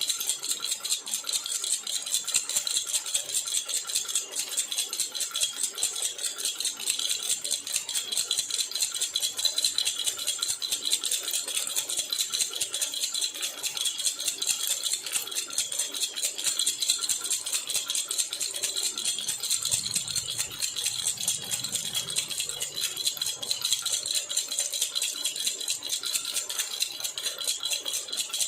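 A jhunjhuna baby rattle shaken steadily and rapidly, its clattering rattle running unbroken.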